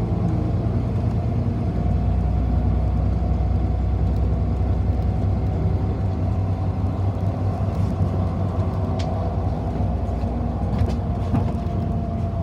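Steady low rumble of a city bus in motion, heard from inside the passenger cabin, with a faint tone and a few light rattles near the end.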